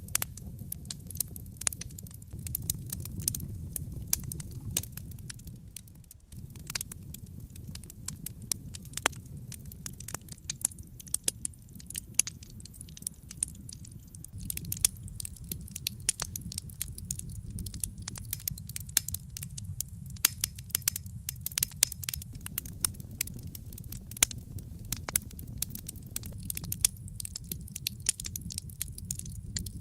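Wood fire in a fireplace crackling and popping, with many irregular sharp snaps over a steady low rumble of burning.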